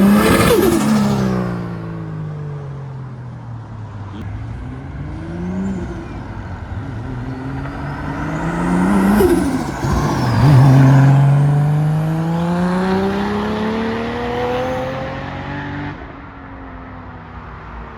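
Modified drift car's engine revving hard in several rising and falling blips, then accelerating away in one long rising pull that fades near the end.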